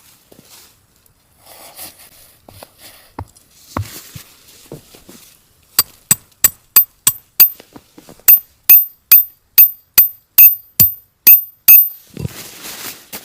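Repeated sharp metal-on-metal strikes, hammering at about three blows a second, each with a short bright ring: a run of six, a brief pause, then about ten louder blows.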